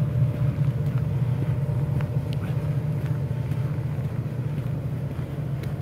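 Diesel locomotives of a CN freight train chugging up a steep hillside grade, heard as a steady low rumble that slowly fades.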